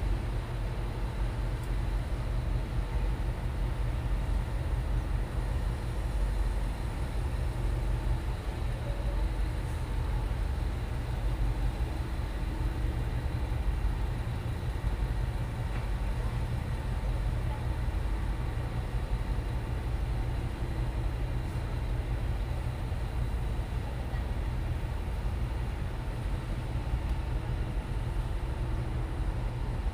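Boat engine running steadily: a low, even drone with a constant pitch and no change in speed.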